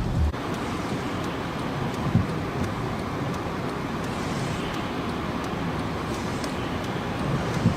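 Steady rushing background noise with two brief knocks, one about two seconds in and one near the end.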